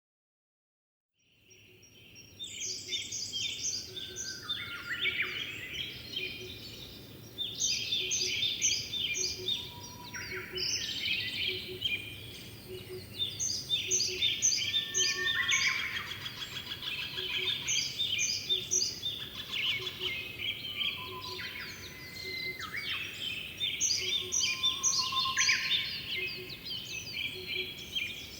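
A chorus of several songbirds singing over one another, with quick repeated high-pitched phrases, over a faint background hum. It fades in from silence in the first second or two.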